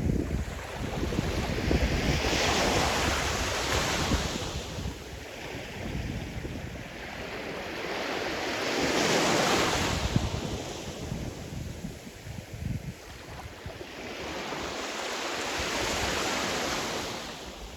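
Sea surf: waves breaking and washing in about every seven seconds, each a rising and falling hiss, three times over, with a gusty low rumble of wind on the microphone underneath.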